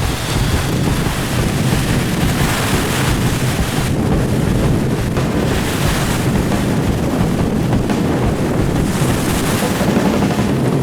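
Strong, gusty wind buffeting the microphone over rough, wind-whipped lake waves, a continuous rushing noise that swells and eases with the gusts.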